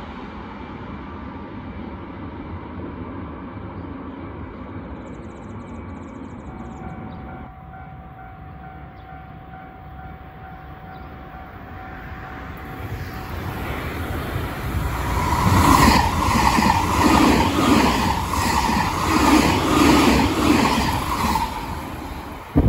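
Shiokaze limited express electric train approaching along the track and running past. It grows steadily louder over several seconds, with a run of rhythmic clacks from the wheels over the rails at its loudest.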